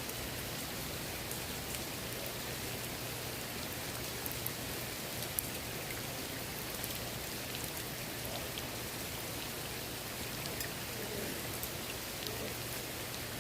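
Steady rain falling onto the water of a swimming pool: a constant hiss with many scattered, sharper drop ticks.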